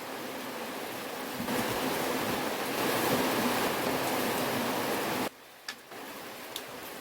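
Heavy rain pouring down in a steady hiss that grows heavier about a second and a half in, then cuts off abruptly to lighter rain with a few single drips near the end.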